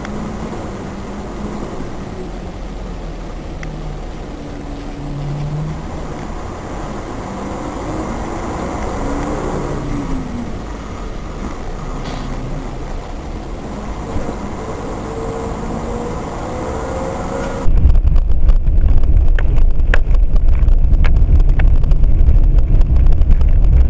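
Car interior driving noise: engine hum and road noise with slowly shifting engine tones. About three-quarters of the way through it cuts abruptly to a much louder, low rumble with crackles.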